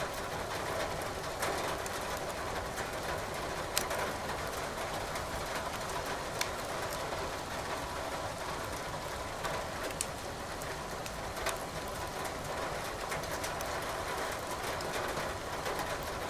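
Wood fire crackling in a fireplace, with a sharp pop every few seconds, over a steady hiss of rain.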